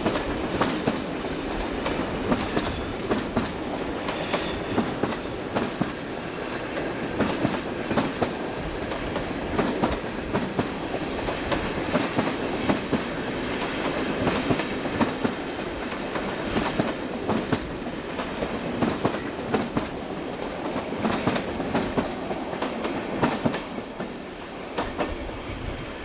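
Train wheels rolling over rail joints and pointwork, a steady rumble with many sharp clicks and clatters throughout, easing slightly near the end.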